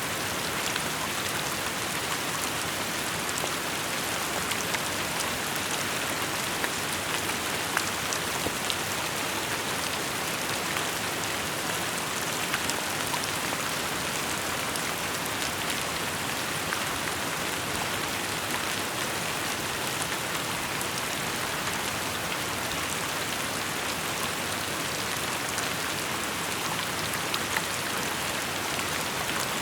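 Steady rain falling, a dense even hiss with many small individual drops pattering on surfaces.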